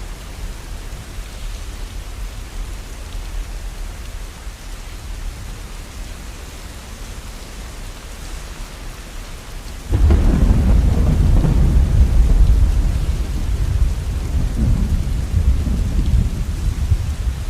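Steady rain, then about ten seconds in a sudden loud, deep thunder rumble that rolls on with swells.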